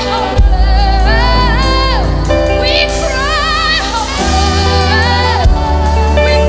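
Gospel worship music: a voice sings long, gliding notes with vibrato over a steady low bass and held chords.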